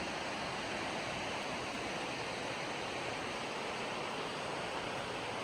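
Shallow Class 1 river rapids: a steady rush of water over rocks.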